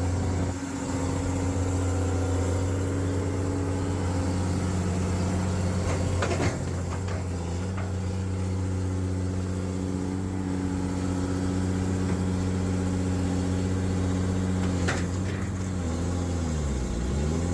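Heavy machinery engine at a drilling site running steadily at constant speed, with a couple of faint knocks. Near the end its pitch sags briefly and comes back up.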